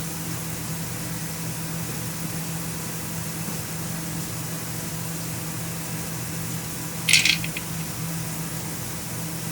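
Electric drain-cleaning machine (Flexi-Rodder FRE) running steadily with a low, even hum as it drives the cleaning wire through the drain. About seven seconds in there is a brief sharp metallic rattle.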